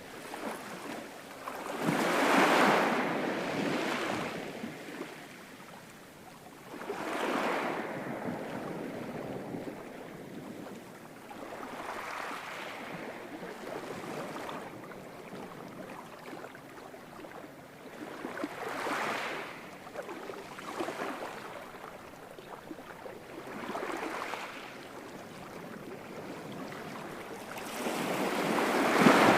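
Ocean waves breaking and washing on the shore, each surge rising and falling away every four to six seconds.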